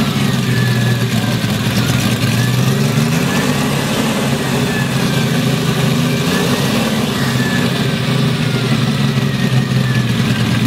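Sports car engine running continuously, its pitch rising and falling every few seconds as it revs up and eases off.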